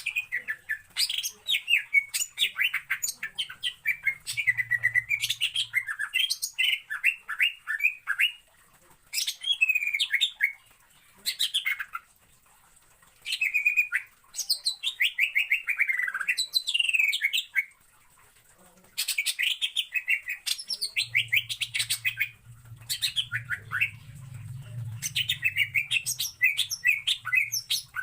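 Green leafbird (cucak ijo) singing: quick runs of sharp chattering and sliding whistled notes in phrases a few seconds long, broken by short pauses.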